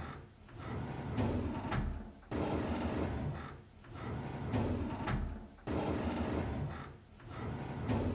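A drawer sliding open on its runners with a rumbling scrape, repeated over and over about every three seconds. Each slide starts suddenly and fades away.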